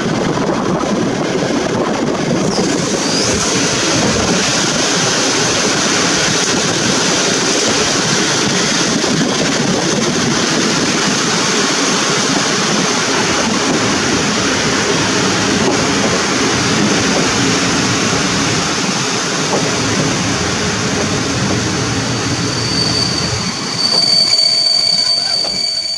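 Passenger coaches rolling over the rails, heard from an open window as the train slows into a station. Near the end a high, steady brake squeal sets in and the sound grows louder.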